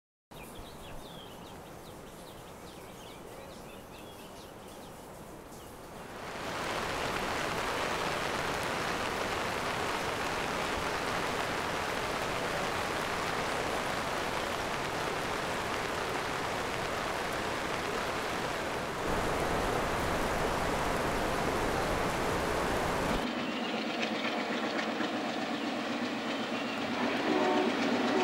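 Train running on rails, a steady rushing noise that comes in loudly about six seconds in after a quieter stretch. Near the end the rumble thins out and a train horn begins to sound.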